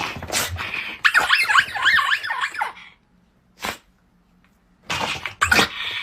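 A dog whining and yipping in a quick run of high cries that rise and fall in pitch, with a few short sharp sounds near the start, in the middle and near the end.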